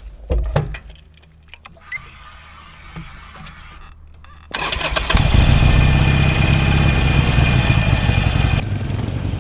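Harley-Davidson Sportster 883's air-cooled V-twin being started: a few clicks, then the starter cranks about halfway through and the engine catches and runs loudly.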